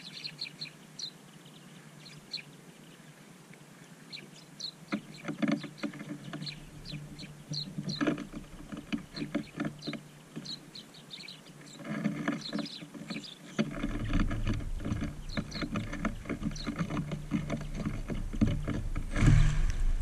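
Small birds chirping in short high calls, with a growing clatter of taps and wing flutters as a flock feeds on seed close to the microphone. A low rumble comes in about two-thirds of the way through, and there is a loud crackle near the end.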